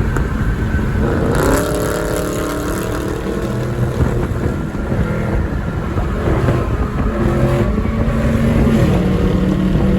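Dodge Charger Scat Pack's 392 HEMI V8 with a muffler delete, heard while driving. Its pitch rises about a second and a half in as it accelerates, then it runs on at speed with smaller changes in pitch.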